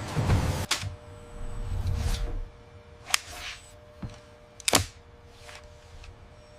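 A few sharp clicks and knocks, about one a second and a half apart, over a low rumble that dies away after two and a half seconds and a faint steady hum.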